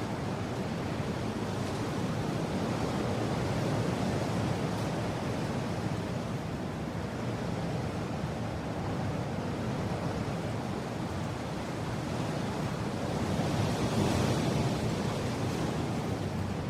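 Strong wind blowing steadily as a deep rushing noise, swelling into a stronger gust about three-quarters of the way through.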